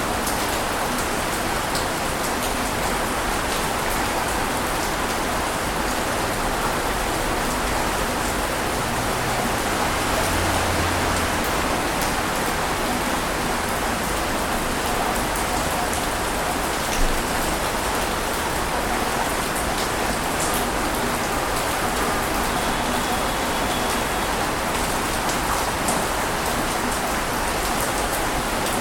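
A steady, even rush of water noise with no swells, sprinkled with faint ticks and one sharper tick a little past the middle.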